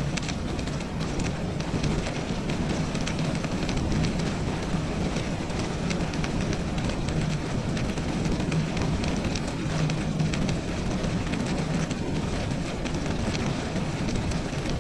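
Bicycle riding on a snowy trail: steady wind noise on the microphone and tyre rumble, with frequent small crackles and clicks.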